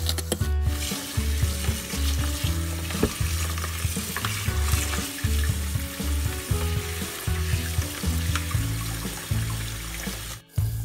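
Background music with a low bass line, over the hiss of a kitchen tap running onto a plastic bag in a stainless steel sink.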